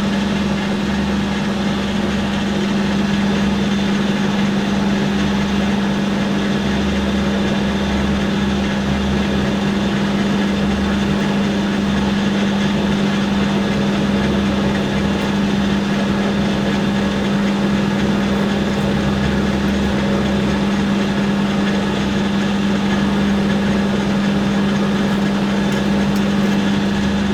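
Hafco AL960B metal lathe running steadily at slow speed with a constant motor and gear hum, while a 10 mm four-flute end mill is fed into the workpiece to cut a clearance hole.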